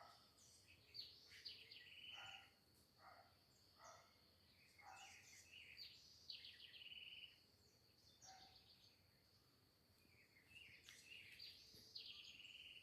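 Faint birdsong: three bouts of quick high chirps each ending in a trill, with short lower calls between them, over a steady high-pitched drone.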